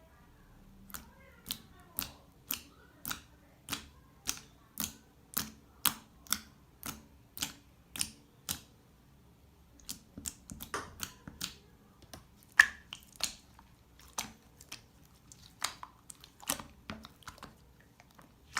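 Slime being pressed and worked by hand, giving sharp clicking pops about twice a second, then after a short pause about ten seconds in, quicker, more irregular clicks.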